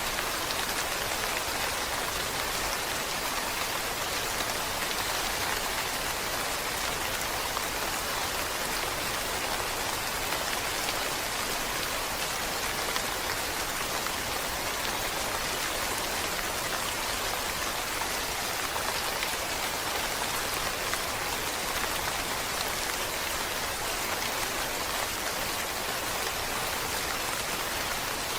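Steady rain falling, an even, unbroken patter of drops that holds the same level throughout.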